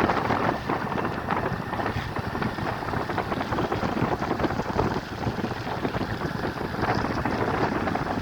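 Loud, steady rushing noise of a rain-swollen river, mixed with wind buffeting the microphone, rising and falling in level.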